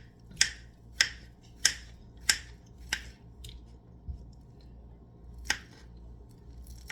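Knife chopping fruit on a cutting board: five sharp taps about two a second, a pause, then one more tap.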